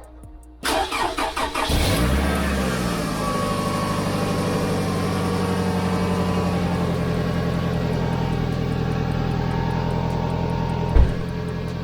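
2003 Toyota Camry 2.4's four-cylinder engine cranking for about a second, catching, revving briefly and settling to a steady idle. The engine is being run to heat the exhaust so the paste in the freshly clamped rear exhaust joint hardens. A single sharp thump near the end.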